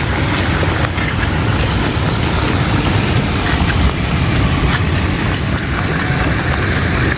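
Heavy rain falling steadily, with wind buffeting the microphone as a low rumble underneath.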